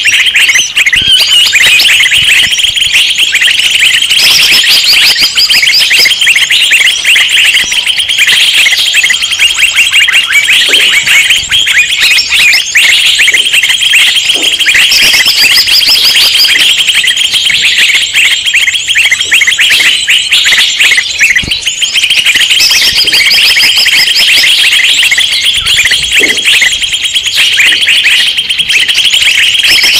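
A dense, loud chorus of many small birds chirping and chattering over one another without a break, with higher whistled phrases now and then: noisy mixed-flock bird calls of the kind played as a lure for wild birds.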